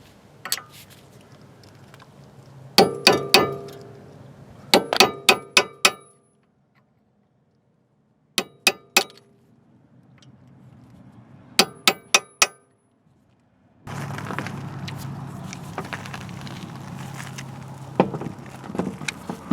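Quick runs of ringing metal-on-metal strikes, four to six in each run, coming in four groups with short breaks between them. A steady low hum joins in for the last few seconds.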